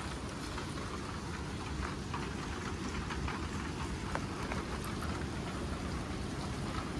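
Steady rain falling: an even hiss with a few faint scattered drip ticks.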